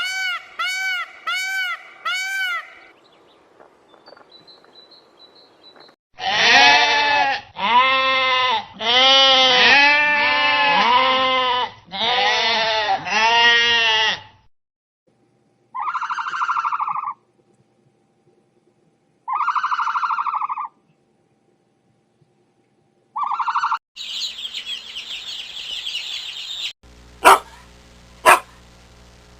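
A series of different animal calls one after another: short repeated calls at first, then about eight seconds of loud repeated calls, then three shorter calls, with sharp short calls near the end.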